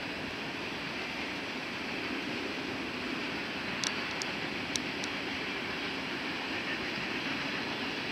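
Freight train cars rolling past on steel rails: a steady rushing rumble of wheels on track, with a few short high-pitched squeaks near the middle.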